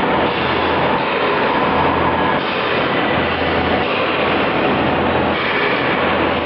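CNC machine tool running, a steady mechanical noise with a low hum that swells and fades every second or two.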